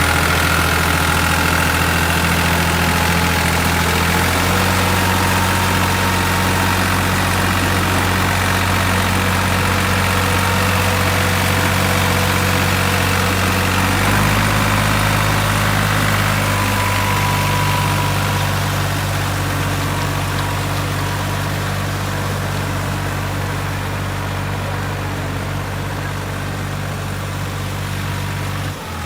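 Tractor engine running steadily, its note stepping to a new pitch a few times as the engine speed changes, a little quieter in the second half.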